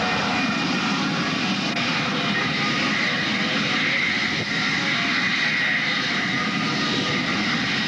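Aircraft engine noise from a plane flying by, a steady, dense sound that holds its level throughout, with a brighter hissing edge coming in a few seconds in.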